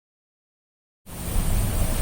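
Silence, then about halfway in, city street sound cuts in abruptly: a low traffic rumble under a steady hiss on a rainy street.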